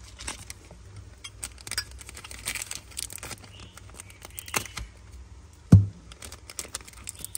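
Light metallic clicks and clinks of a Zippo lighter case being handled, with one heavier knock a little before the end.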